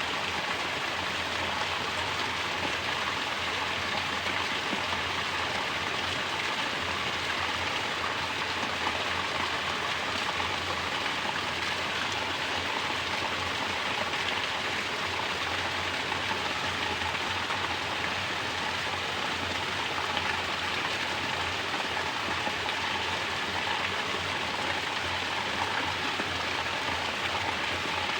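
Mountain water falling in a natural shower, a steady splashing rush with no let-up.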